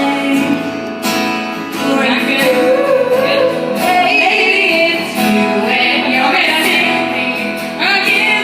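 Women singing wordless vocal warm-ups: held notes and pitch slides, with a long downward slide near the end.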